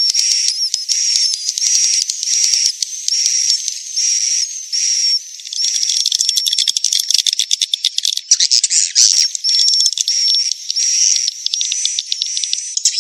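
Swiftlet lure-call recording of the kind played in edible-nest swiftlet houses to draw birds in: buzzy, high chirps repeating about twice a second, turning into denser, overlapping rapid twittering from about halfway.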